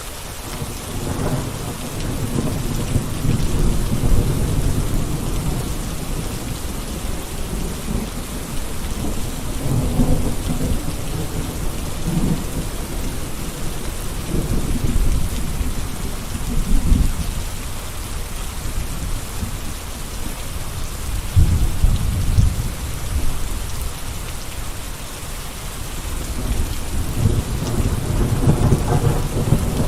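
Steady rain falling as an even hiss, with deep low rumbles that swell and fade several times underneath it.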